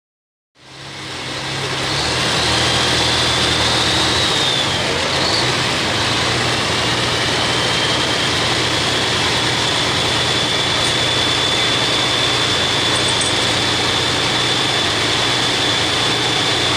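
Super Farm class pulling tractor's turbocharged diesel engine running loud and steady, with a high turbo whistle over it. The sound cuts in out of silence near the start, and the whistle wavers about four seconds in, then holds at one pitch.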